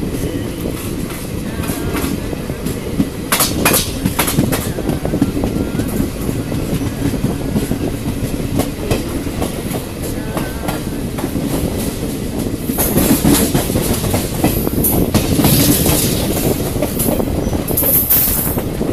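Passenger train running along the track, heard from inside a coach at an open door or window: a steady rumble and clatter of the wheels on the rails, with a few sharp clicks about three to four seconds in. About two-thirds of the way through, the sound grows louder and hissier.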